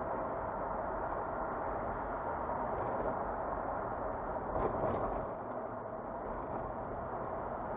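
Steady road and engine noise of a car being driven, heard from inside the car, with a brief louder bump a little past halfway.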